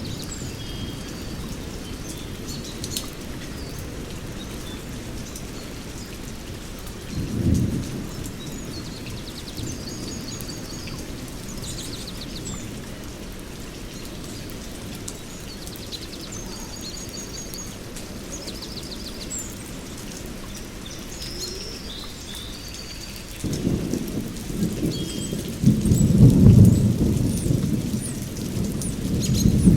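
Small birds chirping over a steady low rumble, with a brief roll of thunder about seven seconds in and a longer, louder roll of thunder through the last six seconds.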